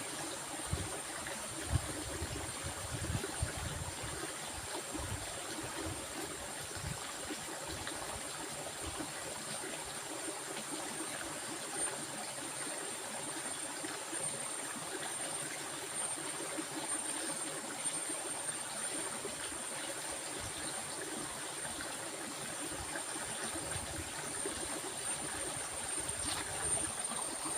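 A stream flowing steadily, with a thin high-pitched tone running above the water noise. A few low knocks come in the first few seconds.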